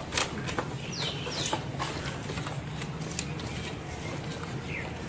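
Birds chirping a few times in short, falling high calls over outdoor ambience, with scattered clicks and a steady low hum.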